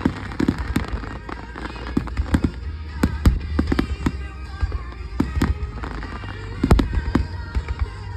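Aerial fireworks shells bursting overhead, a busy string of sharp bangs at irregular intervals over a low rumble, the loudest about three seconds in and again near the end.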